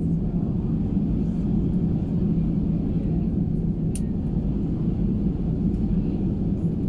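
Steady low rumble of engine and cabin noise inside an Airbus A320 airliner, with one sharp click about four seconds in.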